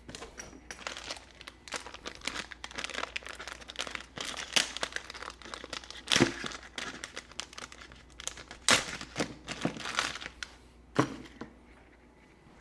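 Plastic packaging crinkling and rustling as it is handled and opened, a dense run of irregular crackles with a few louder sharp ones about six, nine and eleven seconds in.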